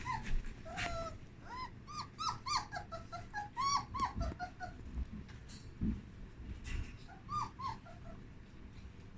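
Young German Shepherd puppies whimpering: a string of short, high squeaks, each rising and falling in pitch, thickest in the first half with a few more near the end. Light clicks and scuffs can be heard among them.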